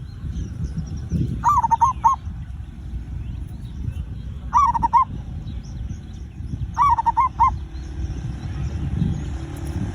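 Zebra dove (perkutut) cooing: three short phrases of several quick notes each, a few seconds apart, over a steady low rumble.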